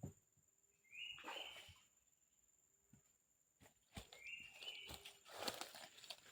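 Soft rustling and a few sharp knocks of handling, while a bird gives the same short call twice: a quick rise, then a held note.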